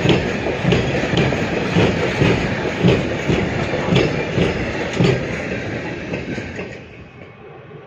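Freight train of covered goods wagons rolling past, the wheels clicking over the rail joints in a steady clickety-clack. The sound drops away suddenly near the end.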